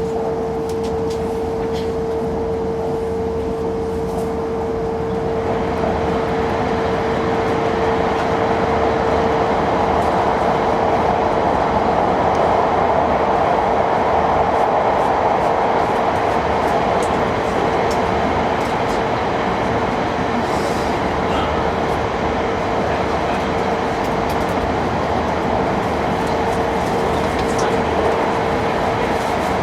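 Cabin noise of a Hokkaido Shinkansen train running at speed: a steady rumble with a constant hum, growing louder about five seconds in.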